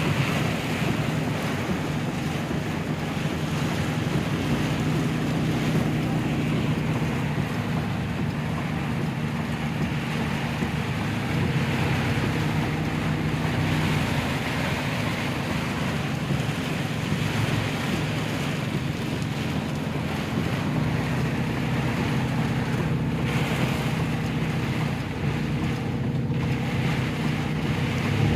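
Heavy rain falling steadily, a continuous hiss of rain, with a steady low hum beneath it.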